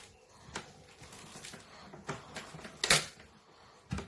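Several sharp, irregular clicks and light knocks, the loudest just before three seconds in.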